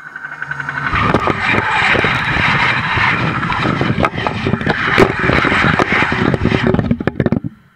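Fast train passing at speed directly over a camera set between the rails. The sound swells over the first second into a loud rumble and rattle with many sharp wheel knocks, then cuts off suddenly near the end.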